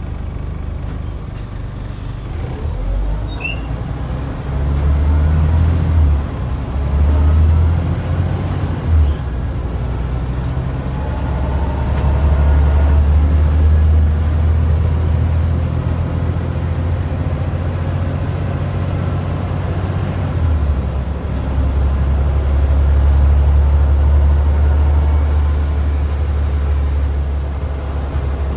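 Scania DC09 nine-litre five-cylinder diesel of a double-decker bus running under way, its low engine note stepping up and down several times as it pulls, eases off and changes gear. A thin high whine runs over it, with short air-brake hisses and a few brief high squeaks near the start.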